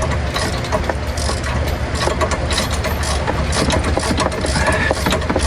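A steady low engine hum, like a vehicle idling, with scattered light metal clicks and clinks over it.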